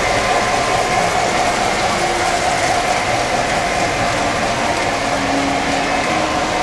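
Model trains running on a home layout: a steady whirring hum of the electric locomotives and wheels on the track.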